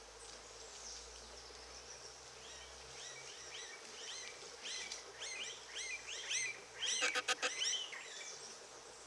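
Birds calling: a run of quick chirps that rise and fall, starting about two and a half seconds in, with a short burst of rapid clicking notes, the loudest part, about seven seconds in.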